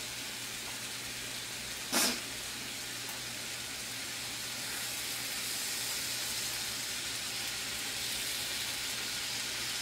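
Chicken strips and sliced peppers sizzling steadily in a hot cast-iron wok, with one sharp click about two seconds in.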